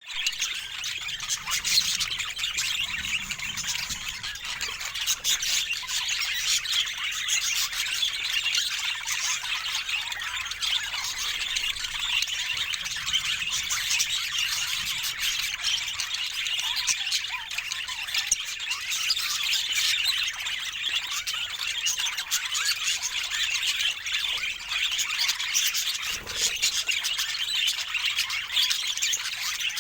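Budgerigars chattering continuously, a dense run of short, high overlapping calls.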